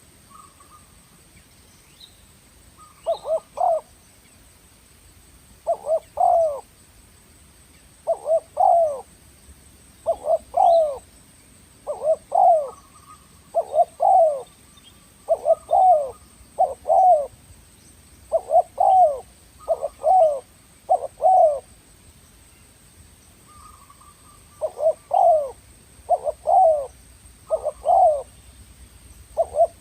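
Spotted dove (tekukur) cooing: short, rolling coo phrases repeated every one to two seconds, starting about three seconds in and pausing for a few seconds near the end. This is the call used to lure the birds in.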